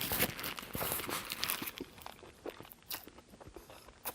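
Close-miked eating sounds: a burger being handled, bitten into and chewed, with soft crackles and scattered clicks that thin out after about two seconds.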